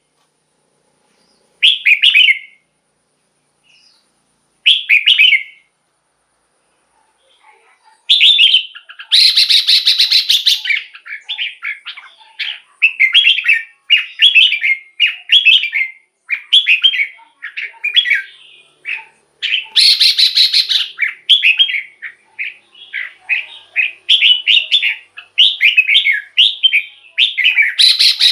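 Red-whiskered bulbul singing: a few short, separate whistled phrases a few seconds apart, then from about eight seconds in a rapid, almost unbroken run of phrases, with two louder, rougher stretches along the way.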